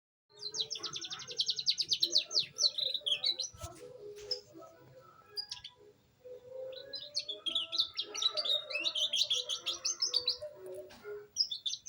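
Young canary singing: a fast trill of rapidly repeated high notes, about ten a second, in the first couple of seconds, then after a quieter pause a long stretch of varied, rapid warbling phrases. This is a young bird just beginning to put rolls into its song.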